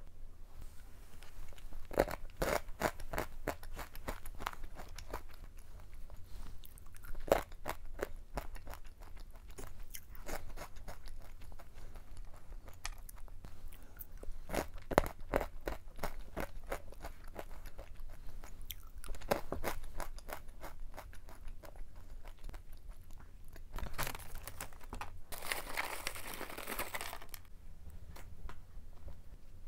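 Close crunching and chewing of HBAF garlic-bread almonds and crispy mini baguette crackers, in bites every few seconds. A rustle lasting about two seconds comes near the end.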